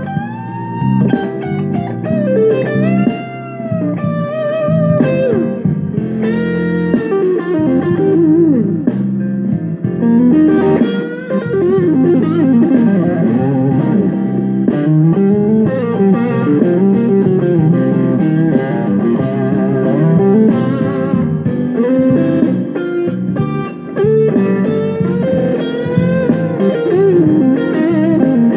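Electric guitar lead lines with many bent notes, played through a Fender Rumble 15 V3 bass combo amp over a backing jam track coming out of the same amp.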